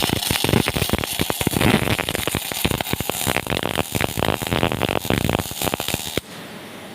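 Electric arc welding: a dense, irregular crackle and sputter of the arc, which cuts off abruptly about six seconds in as the arc is broken.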